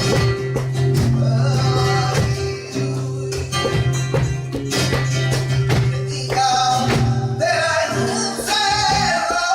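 Flamenco music: guitar over sustained low notes with many sharp percussive strikes, and a voice starting to sing about seven and a half seconds in.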